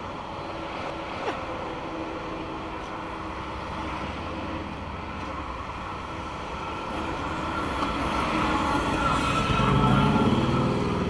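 Vehicle running noise: a steady rumble with a faint whine. It grows louder over the last few seconds.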